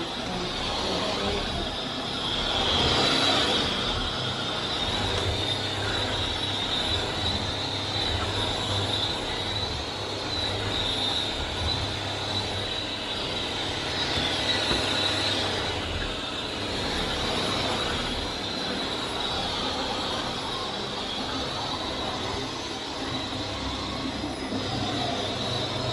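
Vax Air Steerable Max upright vacuum cleaner running: a steady high-pitched motor whine over a rush of air, the level swelling and easing a little, loudest about three seconds in.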